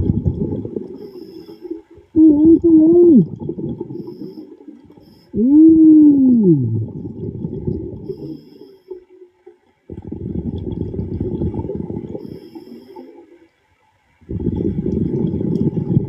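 A diver's underwater breathing: bubbling exhalations come in bursts every few seconds. The first three carry a hummed 'mm' voice that slides down in pitch; the last two are bubbles alone.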